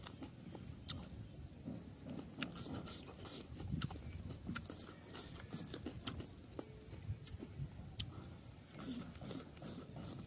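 Close-miked chewing of a mouthful of rice and pork liver curry, with wet lip smacks and sharp mouth clicks at irregular moments.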